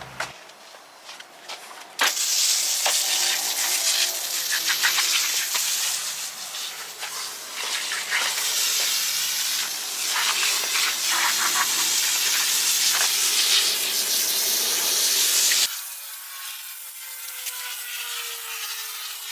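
A loud, steady hiss of pressurised spray with an uneven crackle. It starts abruptly about two seconds in and cuts off sharply near the end.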